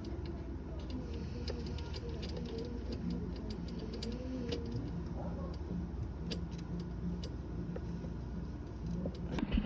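Home-converted electric dirt bike being ridden: a low motor hum whose pitch wavers up and down, with frequent sharp ticks and clicks over it. It swells louder near the end.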